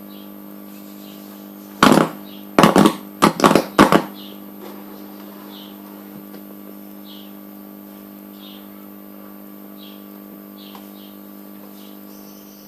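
A steady electrical hum, with a quick cluster of five or six loud knocks about two to four seconds in. Faint short chirps recur every second or so.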